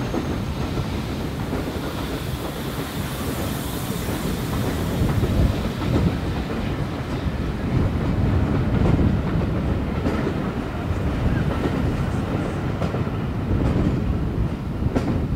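Passenger coaches of a steam-hauled train rolling past on the track below, their wheels clattering over the rail joints in a steady rumble.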